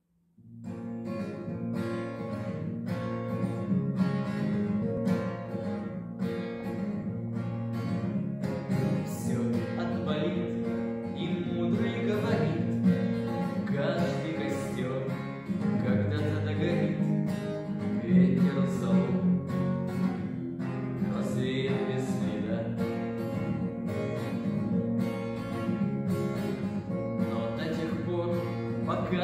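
Instrumental song intro led by a strummed acoustic guitar, with a steady beat of about two strokes a second.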